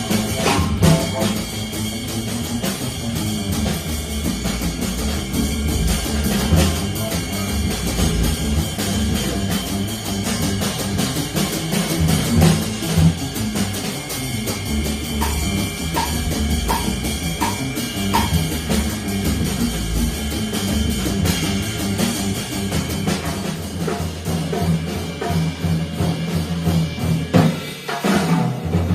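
Live bebop jazz quartet of alto saxophone, piano, double bass and drum kit playing, the drum kit prominent. Near the end the low bass drops away, leaving mostly drums.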